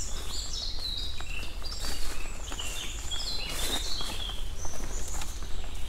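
Small birds singing outdoors, a run of short high chirping and warbling phrases that keeps going throughout, over a steady low wind rumble on the microphone.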